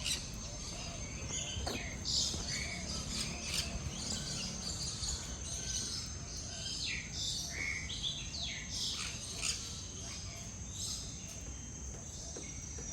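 Many birds chirping and calling in quick, overlapping short notes, over a steady high-pitched whine.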